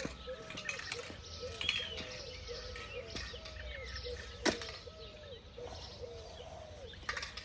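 A bird calling over and over in short, low, arched notes, about two a second. A few sharp clicks come in between, the loudest about halfway through.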